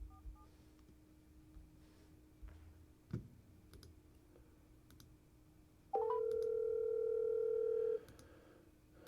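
Telephone ringback tone: a single two-second ring heard over the line while an outgoing call waits to be answered, with a few faint clicks before it.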